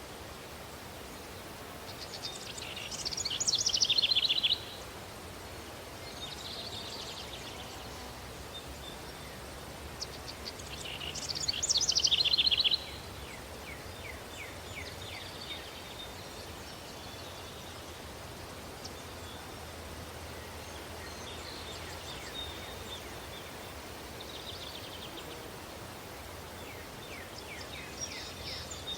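Daytime outdoor nature ambience: a steady breeze-like hiss with songbirds calling. Two loud, quick bird songs stand out, one about two seconds in and another about ten seconds in, with fainter chirps scattered through the rest.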